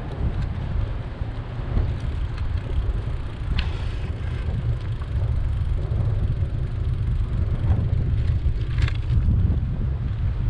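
Wind buffeting the microphone of a camera riding on a moving bicycle, a steady low rumble, with two brief clicks or rattles, about three and a half seconds in and near the end.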